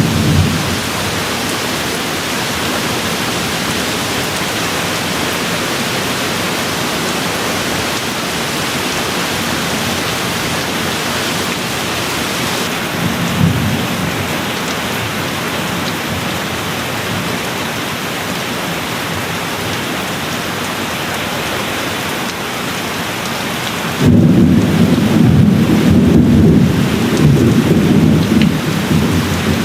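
Steady rain with low rumbles of thunder: a brief one about halfway through, then a louder rolling rumble near the end.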